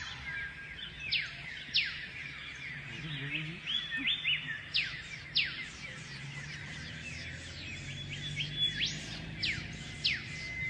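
Birds chirping in a dense chorus: many short, sharp notes each sliding steeply down in pitch, several birds calling over one another, with a low steady hum underneath.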